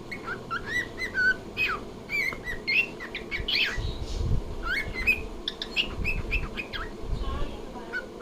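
Cockatiel chattering and whistling in a quick run of short chirps that slide up and down in pitch.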